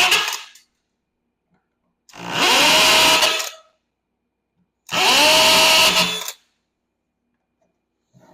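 Power drill drilling out the rivets that hold a golf cart's charger faceplate, in three bursts: each spins up with a rising whine, runs briefly and stops. The first burst ends about half a second in, the next two start at about two and five seconds.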